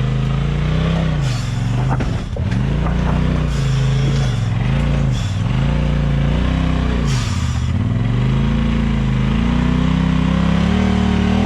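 Side-by-side off-road vehicle engine revving up and falling back in short bursts about once a second, as the machine is worked over rocks, with a couple of knocks around two seconds in; near the end it holds higher revs for a few seconds.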